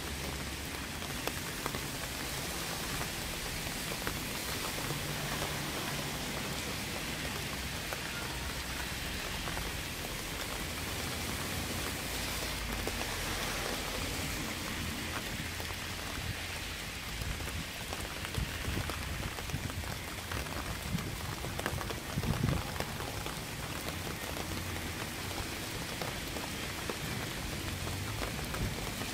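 Steady rain falling and pattering on surfaces, with a rumble underneath and a slightly louder patch about two-thirds of the way through.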